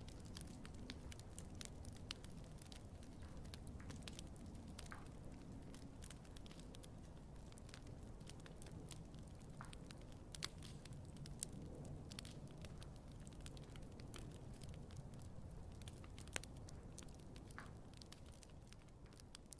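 Wood fire burning, with scattered sharp crackles and pops over a low, soft rumble of flame. It fades down near the end.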